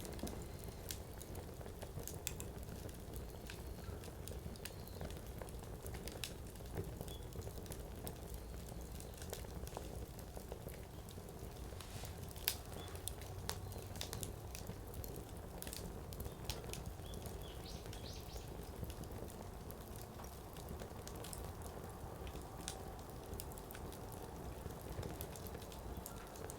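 Firewood burning in a campfire with a steady low flame noise, crackling and popping in frequent sharp snaps. One pop is louder than the rest about halfway through.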